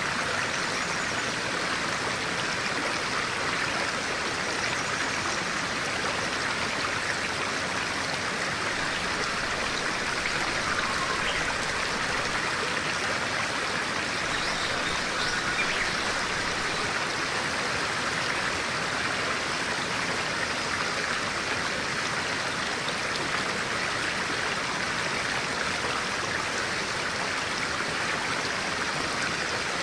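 Clear-water stream running steadily, a constant even rush of water. Near the middle there are a few faint, short bird chirps.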